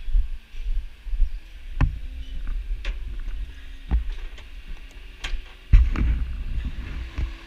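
Wind buffeting the microphone in a fluctuating low rumble, with about five sharp knocks spread through, the loudest near the end.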